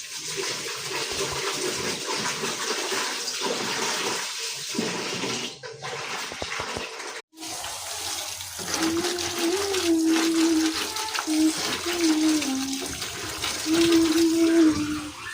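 Water running or splashing in a steady rush. From about nine seconds in, a faint held tone that steps up and down in pitch joins it.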